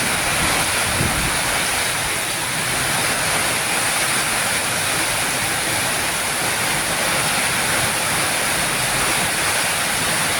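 Heavy rain pouring down in a rainstorm, a steady loud hiss.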